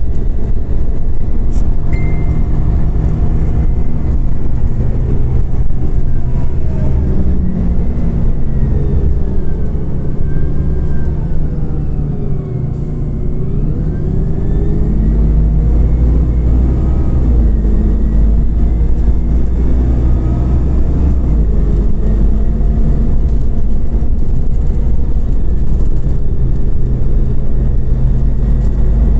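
Scania OmniCity CNG city bus heard from inside while under way: a steady low engine and road drone with a whine that falls in pitch, bottoms out about twelve seconds in as the sound briefly drops, then rises again as the bus picks up speed.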